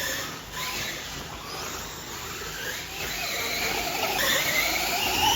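Electric motor whine of radio-controlled racing trucks, rising in pitch several times as they accelerate, the longest and loudest rise near the end.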